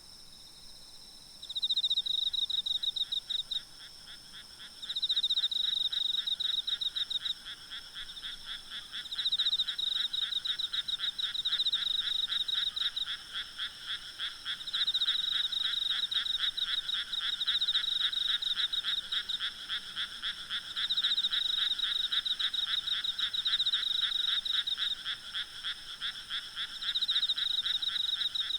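A chorus of frogs croaking in fast, rattling bouts that swell and ease, starting about a second in after a short lull, over a steady high-pitched trilling of insects.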